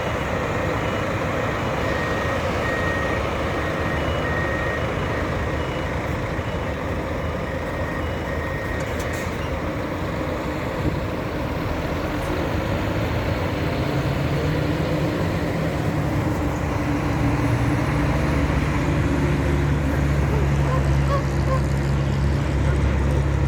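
Scania K400IB double-decker coach's diesel engine running, with a reversing alarm beeping on and off for about the first nine seconds. From about halfway the engine comes under load, its note rising and growing louder.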